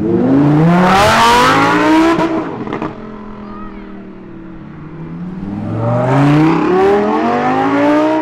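Performance car engines accelerating hard. The engine note climbs twice in the first two seconds with a drop between, like a gear change, then fades. A second acceleration climbs from about five seconds in and is loudest near the end.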